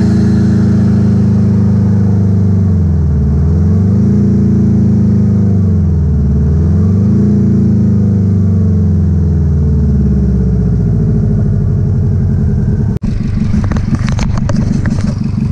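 Four-cylinder boxer engine held at high revs, its pitch dipping and climbing back twice. About 13 seconds in it cuts to a lower engine sound with a fast, rattling clatter.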